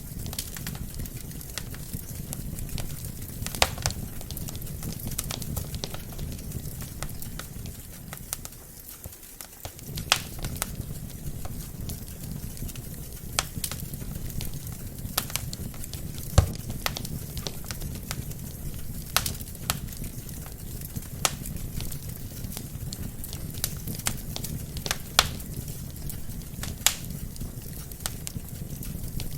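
Wood fire burning in a fireplace: a steady low rush of flames with sharp crackles and pops from the logs scattered irregularly, every second or so. The low rush drops away briefly about a third of the way in.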